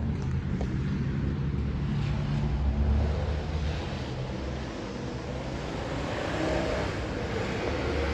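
Heavy rain falling, with a low rumble of street traffic that swells about three seconds in.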